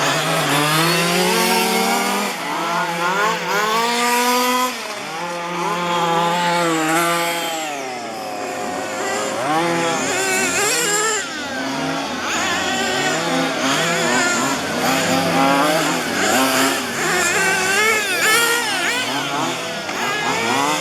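Several 1:5-scale petrol RC cars' small two-stroke engines racing, each pitch rising and falling as they rev up and back off, overlapping throughout.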